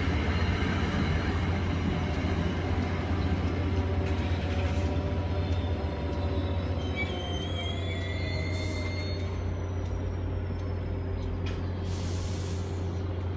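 NJ Transit commuter train rolling into the station and braking to a stop: a steady low rumble, with brake and wheel squeals and a slowly falling whine. Air brake hisses come about eight and a half seconds in and again about twelve seconds in, as the train halts.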